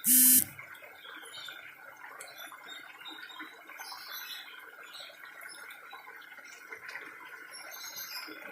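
A short, loud buzzing electronic beep right at the start, then faint, irregular small ticks and crackles.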